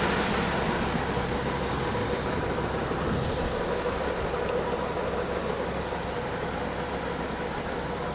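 Farm machinery engine running steadily, an even rumble with a faint constant hum.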